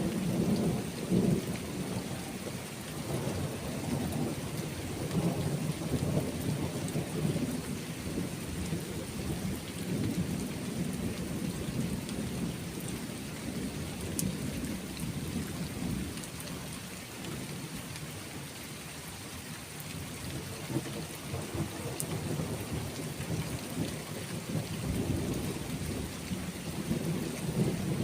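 Steady rain with thunder rolling in the distance, a low rumble that swells and fades several times.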